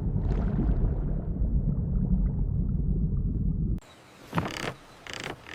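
A loud, deep rumble that cuts off abruptly about four seconds in, followed by a couple of brief faint sounds.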